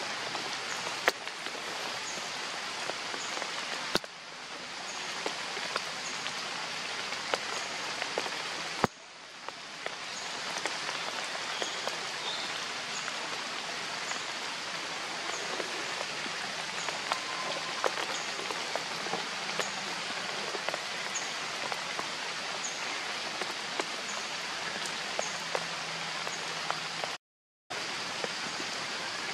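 Steady rain falling on forest leaves and ground, an even hiss scattered with the small ticks of drops. A faint high chirp repeats about once a second through it, and the sound cuts out for a moment near the end.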